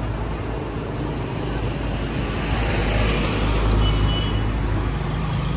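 Motor vehicle engine and road noise: a steady low engine hum with traffic sound, swelling a little past the middle, with a brief high tone about four seconds in.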